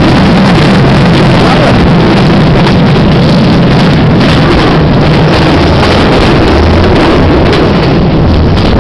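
Udarata Menike passenger train running, heard from inside the carriage: a loud, steady rumble of the moving train mixed with wind rushing past the microphone.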